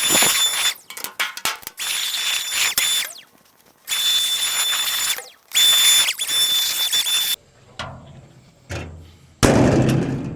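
Leaf blower blowing old hay and chaff out of a round baler: a loud rush of air with a steady high whine, in bursts that cut in and out several times. It stops about seven seconds in, leaving a few clicks and a knock near the end.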